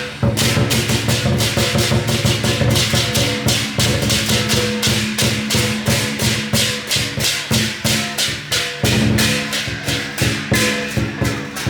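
Lion dance percussion: drum and clashing cymbals played in a fast, even beat, about four or five strokes a second.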